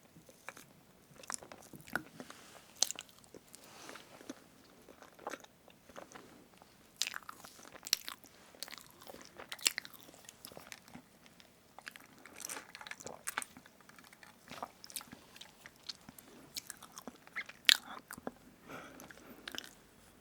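Close-miked eating of strawberry whipped-cream cake: wet chewing and irregular mouth smacks and clicks, with a sharper click about 17 seconds in.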